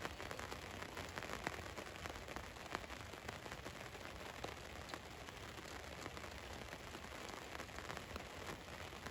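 Steady rain falling on a van's roof: an even hiss with many separate drops ticking on the metal.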